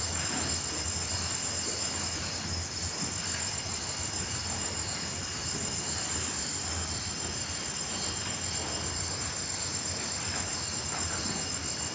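Night chorus of crickets and grasshoppers chirring in a steady, unbroken high trill, with a softer pulsing layer beneath it, over a low steady hum.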